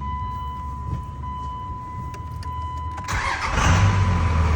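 A steady electronic warning tone from the dash for about three seconds. Then the second-gen Cummins 5.9-litre diesel cranks, catches about three and a half seconds in, and settles into a deep, steady idle.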